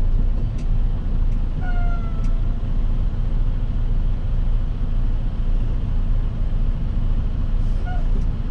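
Semi-truck tractor running without a trailer, its engine giving a steady low rumble in the cab as it creeps along. A short high squeak slides down in pitch about two seconds in, a smaller one comes near the end, and a few sharp clicks sound early on.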